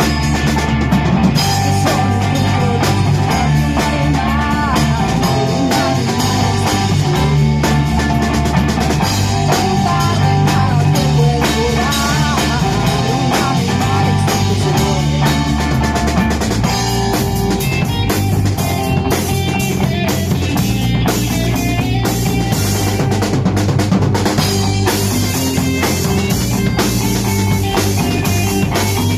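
Live band playing an instrumental break between sung verses: drum kit keeping a steady beat under guitar, with a moving low line.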